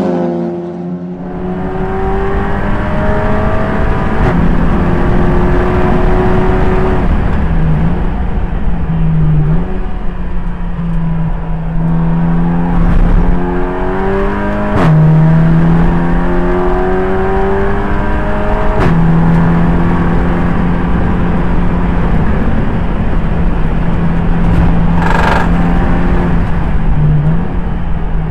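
Audi TT Cup race car's turbocharged petrol engine accelerating hard through the gears, its pitch climbing and then dropping sharply at each upshift, several times over.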